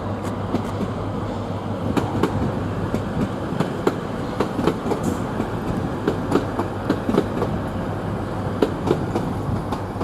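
Passenger train rolling past at low speed, its wheels clicking and clattering over rail joints and pointwork, several clicks a second over a steady rumble.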